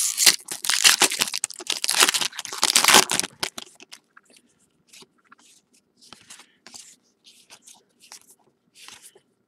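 A trading card pack's wrapper torn open and crinkled for about three seconds, followed by faint, brief rustles as the cards are handled.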